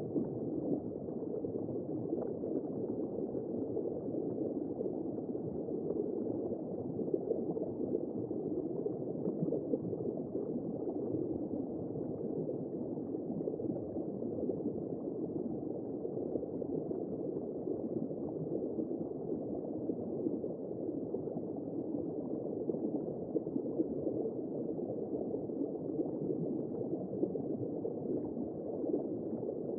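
Womb sound for baby sleep: a steady, muffled whooshing noise with no high end and no distinct heartbeat.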